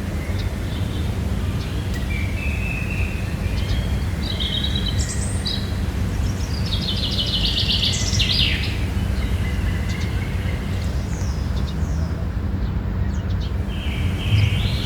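Songbirds singing in short, high trilled phrases every few seconds, over a steady low rumble.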